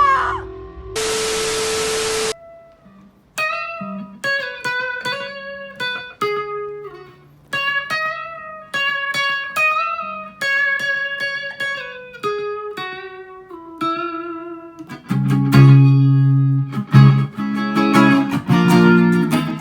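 Guitar music: a plucked guitar picks out a melody one note at a time, and about fifteen seconds in a louder, fuller accompaniment with bass joins it. About a second in there is a short burst of hiss with a steady tone.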